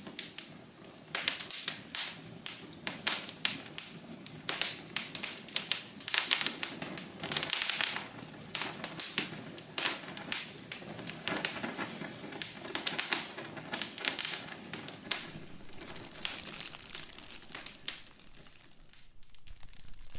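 Wood fire crackling in a fireplace: irregular pops and snaps over a soft steady hiss, thinning out near the end.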